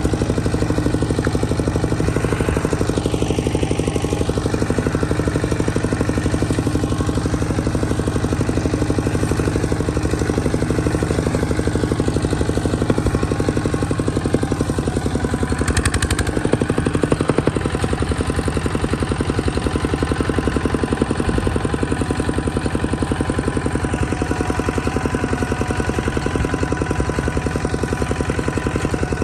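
Vehicle engine running steadily at an even speed, close and loud, with a brief rattle about halfway through.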